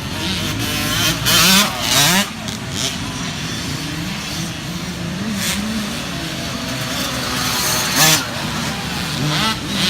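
Small youth dirt bike engines revving up and down as they race, several at once, with louder moments as bikes come close about a second and a half in, at two seconds, and again around eight seconds.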